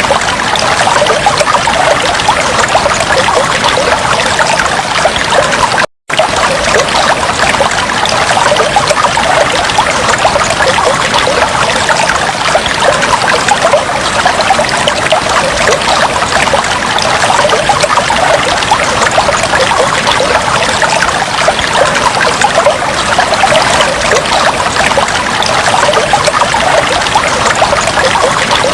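Aquarium water trickling and bubbling steadily, with many fine bubbly splashes. The sound drops out for an instant about six seconds in, then resumes unchanged.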